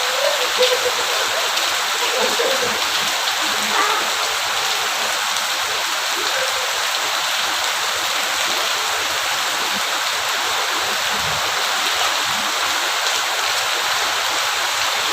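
Rain falling steadily, an even continuous hiss.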